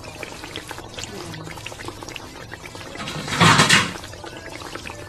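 Chicken simmering in a soda and pineapple-juice sauce in an aluminium wok, with many small bubbling pops and crackles. About three and a half seconds in there is a brief, louder rush of liquid noise.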